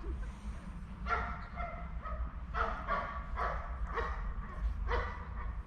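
German shepherds barking, a string of short, fairly faint barks roughly every half second to a second, over a steady low rumble.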